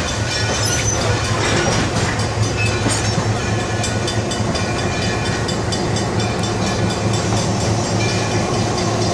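Steam train moving along the track: a steady low hum and rumble with scattered light clicks.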